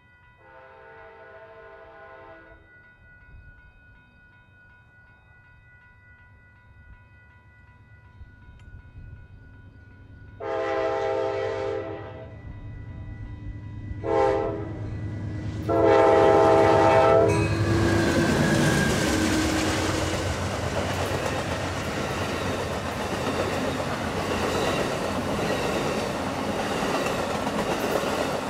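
Approaching train's locomotive horn sounding long, long, short, long (the grade-crossing signal), each blast louder as it nears. The train then passes at speed with a loud, steady rushing of wheels and cars.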